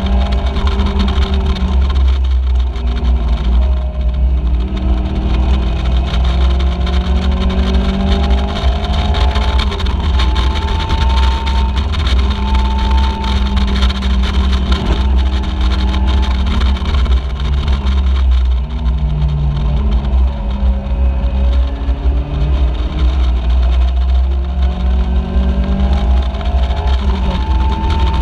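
Caterham Seven race car engine heard from the open cockpit under racing load. Its pitch climbs through the gears with a break at each shift, holds steady for a few seconds in the middle, then drops for a corner and climbs again. A heavy low rumble of wind on the microphone runs underneath.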